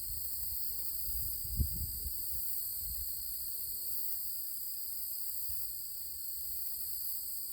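Steady high-pitched chorus of insects such as crickets, with a brief low thump about a second and a half in.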